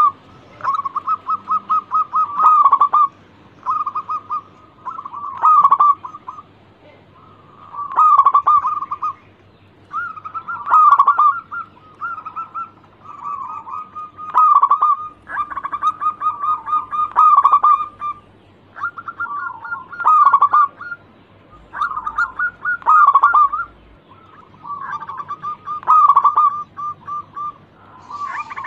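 Local perkutut (zebra dove) cooing over and over: phrases of rapid staccato coos, a new phrase every two to three seconds.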